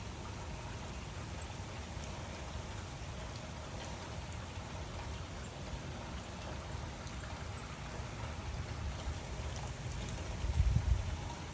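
Steady rain falling, an even hiss of drops. About ten seconds in there is a brief, loud low rumble.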